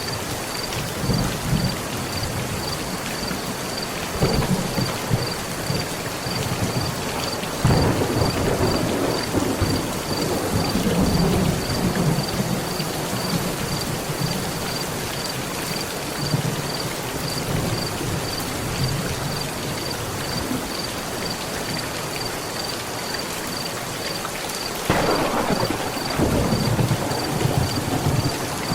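Heavy rain falling steadily on a metal roof, with rolls of thunder rumbling at intervals. The loudest clap breaks sharply about 25 seconds in. A faint, evenly repeating high chirp runs throughout.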